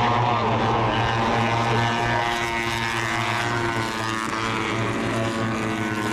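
Several Moto3 racing motorcycles' 250 cc single-cylinder four-stroke engines revving hard and shifting gears as they pass, their pitches rising and falling over one another.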